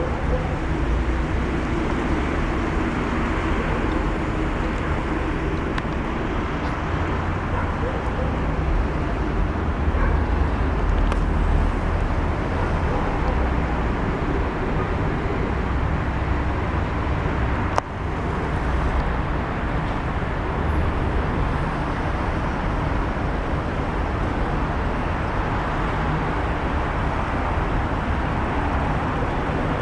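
Steady outdoor background noise with a low rumble and hiss, and a single sharp click about eighteen seconds in.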